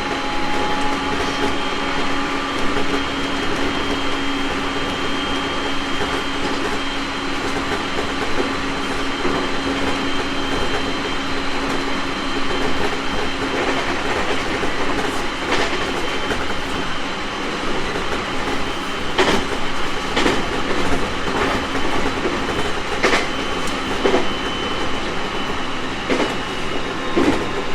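Onboard running sound of a 701-series electric multiple unit train: a steady mechanical din with several held whining tones, the lowest of which stops about halfway. In the second half, sharp clacks of the wheels over rail joints come through, several in quick succession near the end.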